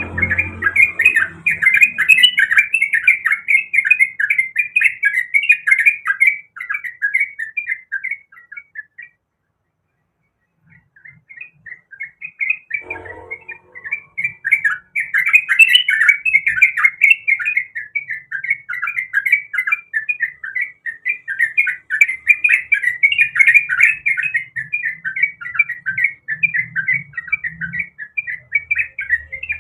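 Yellow-vented bulbul (trucuk) singing, a fast unbroken run of bubbly chattering notes. It breaks off for about two seconds around a third of the way in, then carries on.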